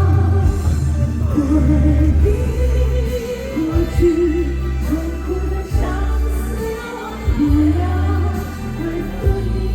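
A live band playing a pop song with a singer's voice carrying the melody over a heavy, steady bass.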